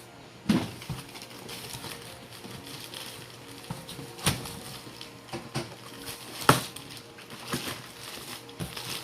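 Scattered knocks and taps from handling a new Whirlpool 0.7 cu ft microwave and its packaging, with the sharpest knocks about half a second in, near the middle and about two-thirds of the way through.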